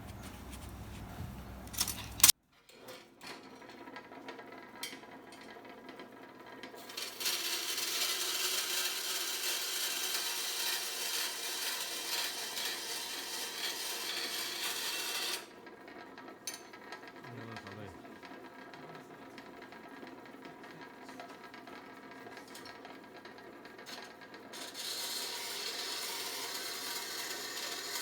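Hand work on the sheet metal of an 18-litre square tin can: a sharp click about two seconds in, then a steady scraping noise for about eight seconds, a quieter pause, and the scraping again near the end.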